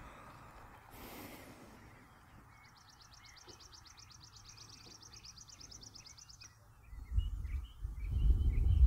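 A songbird singing a rapid, high, dry trill for about four seconds, with softer scattered bird chirps around it. Near the end a louder low rumble sets in.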